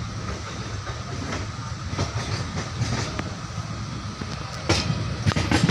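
Train running on the rails: a steady low rumble with the clatter of wheels over rail joints, and a cluster of sharper knocks near the end.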